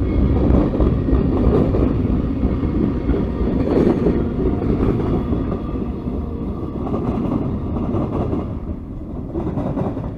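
Freight cars of a passing military train rolling by, a steady rumble of wheels on rail that eases off slightly near the end.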